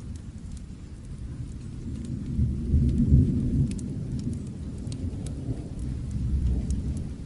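Distant thunder rumbling low, swelling to its loudest about three seconds in and rising again near the end, over steady rain. Scattered sharp crackles of a fireplace fire tick through it.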